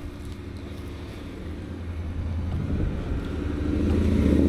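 A car approaching, its engine noise growing steadily louder over the second half.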